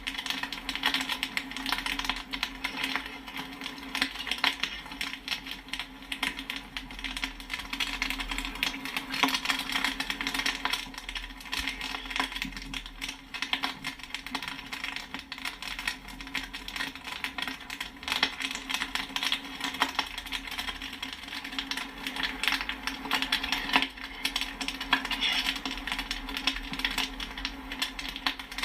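Popcorn popping: a dense, irregular run of sharp pops and pings, over a steady low hum.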